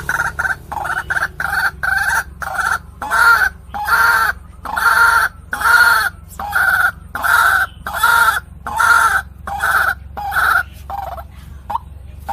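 White-breasted waterhen (ruak-ruak) calling: a long run of loud, repeated two-toned notes, about two a second, swelling and then fading near the end into short rising notes.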